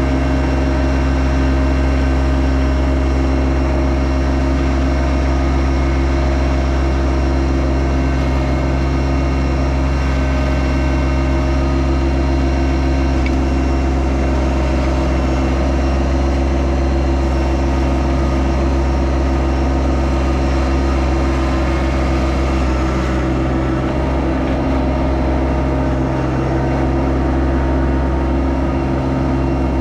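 Yanmar SA324 compact tractor's diesel engine running steadily, with a slight change in its low note a few seconds before the end.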